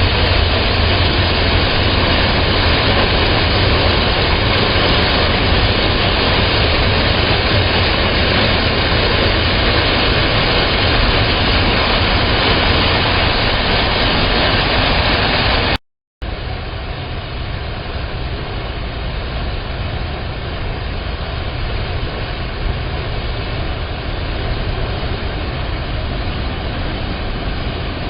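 Steady rush of a waterfall, heard as a loud, even roar of water. It cuts off for a moment about 16 seconds in and returns somewhat quieter.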